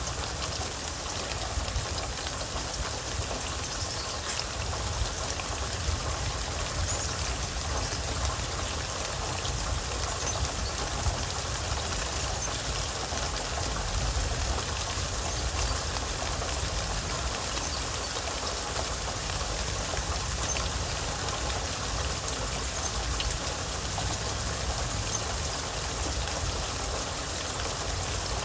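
Steady rain falling: an even, continuous hiss of rainfall with a low rumble underneath.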